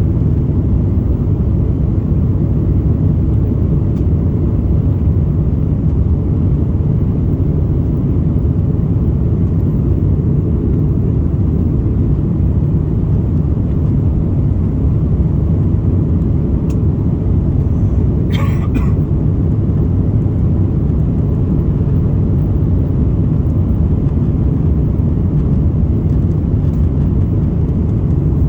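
Steady, loud low rumble of engine and airflow noise inside the cabin of an Airbus A330-200 airliner, in flight after takeoff. A brief higher sound cuts in about two-thirds of the way through.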